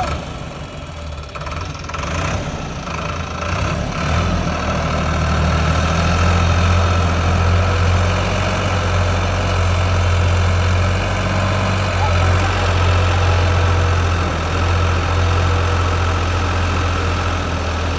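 Tractor's diesel engine running steadily, growing louder a few seconds in and then holding level.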